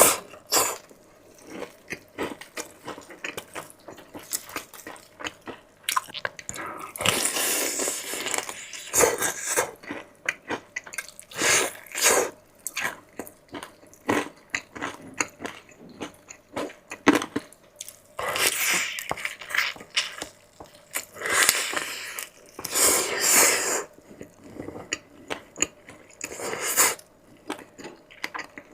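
Close-miked eating: chewing and biting with wet, sticky mouth sounds and many small clicks, broken by several longer noisy stretches of a second or two.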